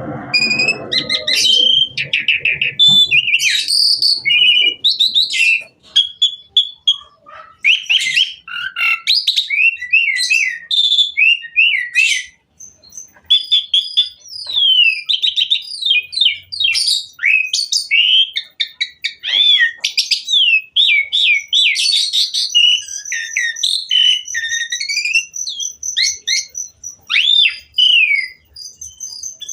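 Asian pied starling (Jalak Suren) singing a long, rapid, varied song of whistles, sliding notes and chirps packed with mimicked phrases, with a high buzzy trill in the second half.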